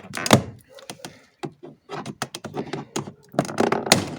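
Irregular knocks, clicks and thunks of plastic door parts being pried and pushed by hand inside a car door, with a denser run of knocks near the end.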